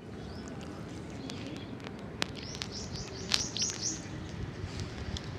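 A bird chirping a quick run of about six short high notes around the middle, over a steady low rumble, with a few sharp clicks.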